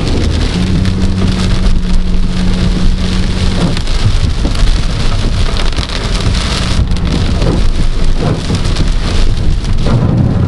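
Heavy rain beating on a moving car's roof and windscreen, heard from inside the cabin over low road rumble, with a steady low hum for the first few seconds.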